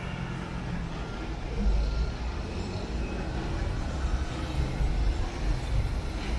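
Urban street ambience: a steady low rumble of road traffic with no single event standing out.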